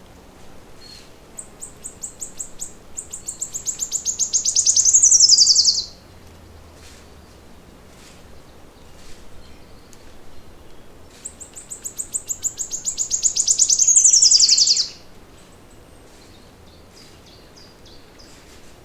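A songbird sings two long songs. Each is a fast trill of repeated high notes that grows steadily louder for about four seconds and ends in a quick falling sweep, and the second begins about ten seconds after the first. Faint chirps from other birds sit between the songs over a soft background hiss.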